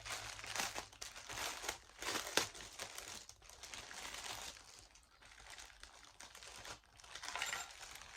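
Packaging crinkling and rustling as items are handled, in uneven bursts, loudest about two seconds in.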